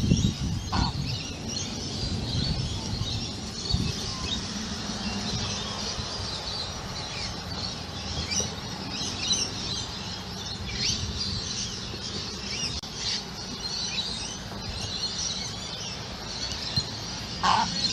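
A flock of birds calling all at once, a dense, continuous high chattering, with a louder, lower call about a second in and another near the end, over a steady low rumble.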